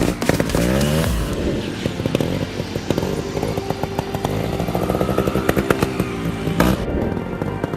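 Trials motorcycle engine revving in short throttle blips, the pitch rising and falling repeatedly, with scattered knocks and clicks.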